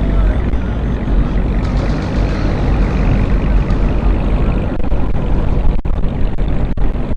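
Car engine and road noise: a loud, steady low rumble.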